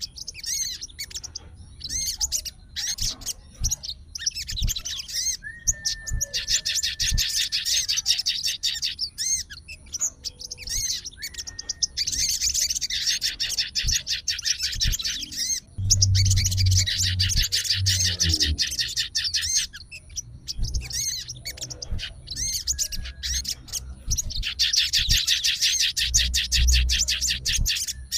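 Sogon songbird singing: long bouts of very rapid, high trilling, about five bouts with short pauses between, mixed with a few brief held whistles and chirps.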